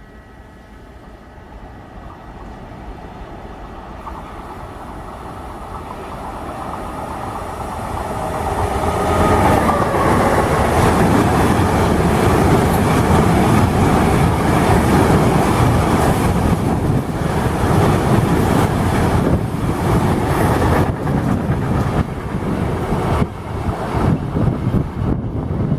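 Train approaching and passing close by: the noise grows steadily louder for about nine seconds, then the wheels clatter over the rail joints in a run of sharp clicks as the cars go by.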